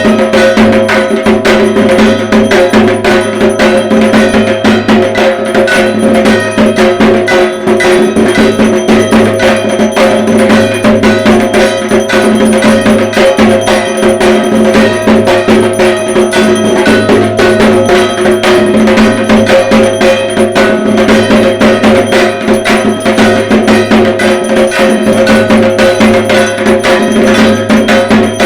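Dhak, the Bengali barrel drum, beaten with sticks in a fast, unbroken rhythm, with metal percussion ringing and clanging along.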